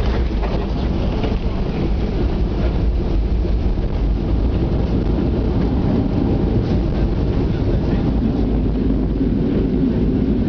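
Steady low drone of a Gol Boeing 737 airliner's jet engines and airflow, holding an even level without rising or falling.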